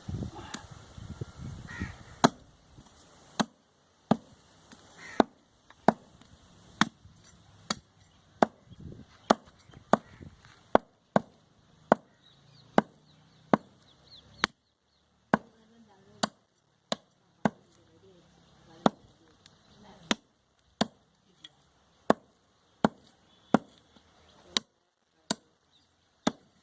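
A cleaver chopping goat meat on a wooden block: a long run of sharp chops, irregular at about one to two a second. Rustling handling noise comes in the first two seconds.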